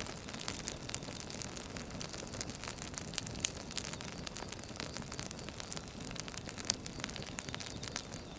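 Firewood burning: a steady rush with dense, irregular crackles and pops, one sharper pop about three and a half seconds in.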